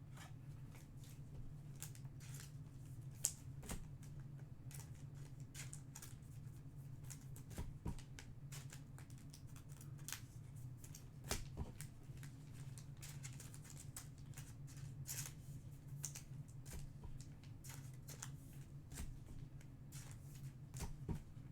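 Trading card packs and cards being handled and opened: scattered crinkles, rustles and small clicks of wrappers and card stock, with one sharp click about three seconds in, over a steady low room hum.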